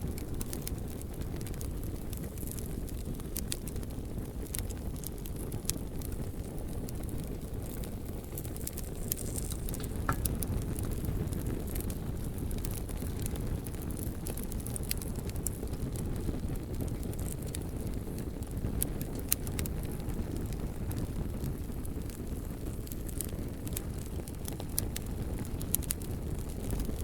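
Bonfire of burning wood: a steady low rumble of flame, with frequent small sharp crackles and pops from the logs throughout.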